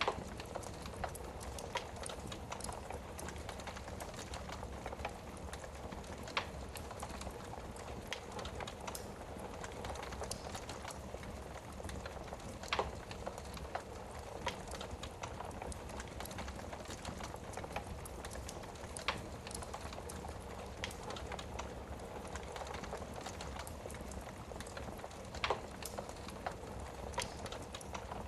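Wood fire burning in a fireplace: a steady soft hiss with frequent small crackles and a few sharper pops.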